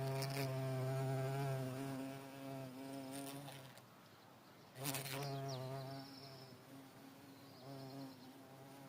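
An insect, most likely a bee, buzzing in flight close by with a steady low hum. The hum is loud for the first three seconds, drops out around four seconds in, then comes back softer. A few brief clicks sound over it.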